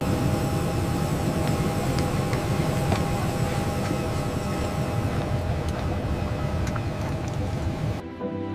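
Jet aircraft engine noise, a dense low rumble that cuts off suddenly near the end.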